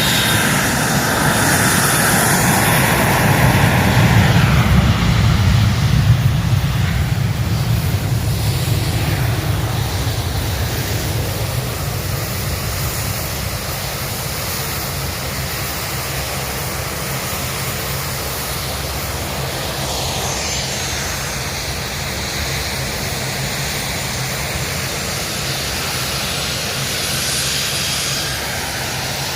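Aircraft engine noise as a plane flies past: a loud rumble with a whine that dips in pitch, loudest about five seconds in, then easing to a steadier, fainter drone.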